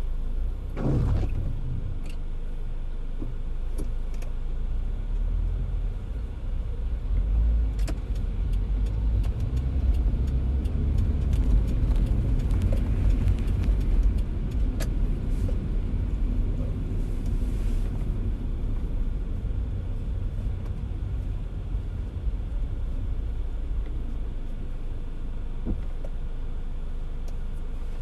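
A car driving in the rain, heard from inside: a low, steady road and tyre rumble that swells through the middle, with scattered sharp taps and a brief hiss about two-thirds of the way through.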